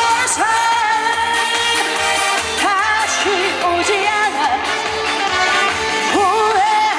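A woman singing a trot song live over loud backing music, holding long notes, some of them with a wavering vibrato.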